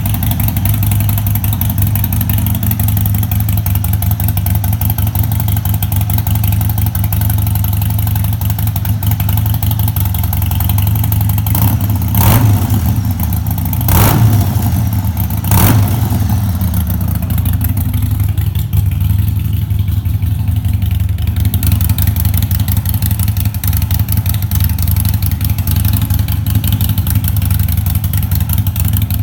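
Harley-Davidson Sportster Iron 1200's air-cooled V-twin idling loudly through Shark Road straight-through slip-on mufflers, with three quick throttle blips near the middle.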